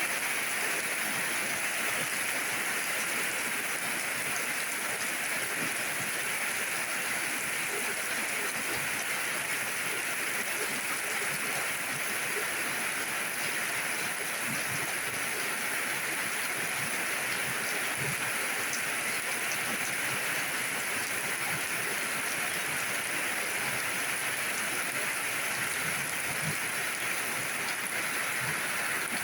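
Steady rain falling, an even hiss with faint scattered drops tapping.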